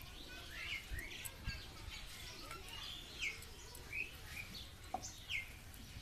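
Small birds chirping: short, downward-sliding chirps repeated irregularly, with a single sharp click about five seconds in.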